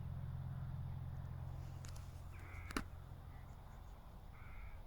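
Distant helicopter's low, steady drone, fading over the last second or so. A bird calls briefly twice, and there is a single sharp click about three seconds in.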